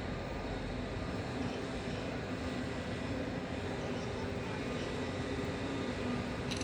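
Steady jet noise from an Airbus A320neo's turbofan engines, an even rush with a low hum running through it.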